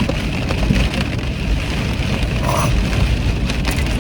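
Steady rain on the roof of a parked car, heard from inside the cabin with a deep rumble, and a few faint knocks from things being handled.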